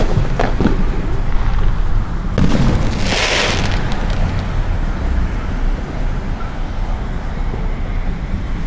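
Fireworks going off, a few sharp bangs near the start and a hissing crackle about three seconds in, over a steady low rumble of traffic.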